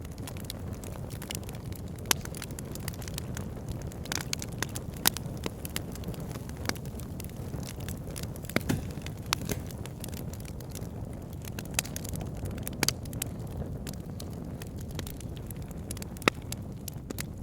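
Wood logs burning in a fireplace: a steady low rumble of flames with irregular sharp crackles and pops, a few louder pops standing out.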